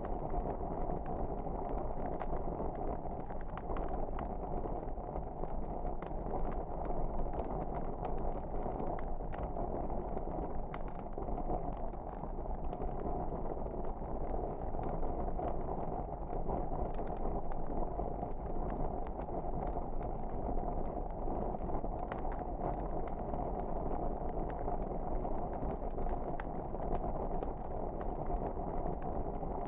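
Wood fire crackling: frequent sharp pops and snaps over a steady low rumble of the flames.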